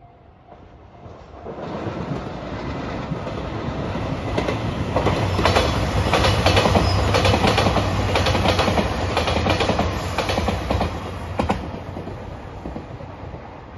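JR Shikoku 2700 series diesel limited express train passing, its wheels clacking over the rail joints. It grows louder, is loudest about halfway through with a quick run of clacks, then fades as it moves away.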